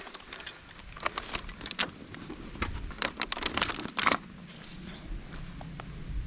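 Irregular clicks and rattles of gear on an e-bike's rear rack as it rides over a rough trail, over a steady thin high whine.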